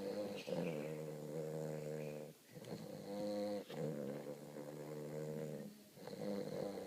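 Weimaraner puppy snoring in its sleep: a run of pitched, buzzing snore breaths, with short pauses between breaths.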